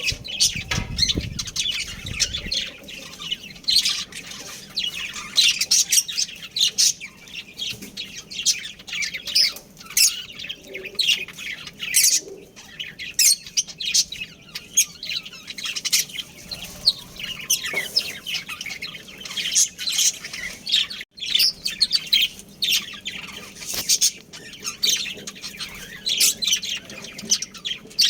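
Budgerigars chattering and chirping continuously, a dense stream of short, high chirps and warbles. A brief low rumble sounds near the start.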